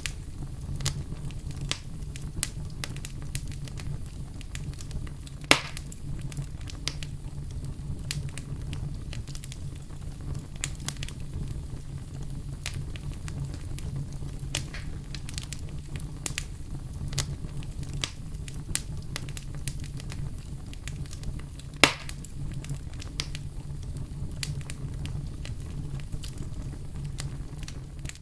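Wood fire burning in a fireplace: a steady low rumble of flames with frequent crackles, and two loud sharp pops, one about five seconds in and one near twenty-two seconds.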